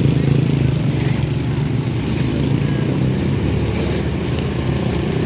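Heavy diesel engine running steadily at constant speed, from the excavator or the sand-loaded truck being recovered.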